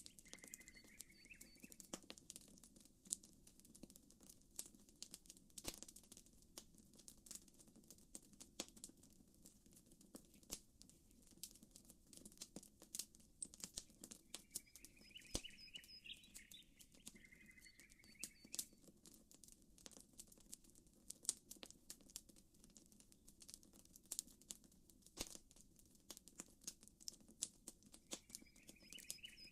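Campfire crackling faintly with irregular sharp pops, over a soft low wash of gentle water ripples. A bird chirps a short phrase near the start, twice around the middle, and again at the end.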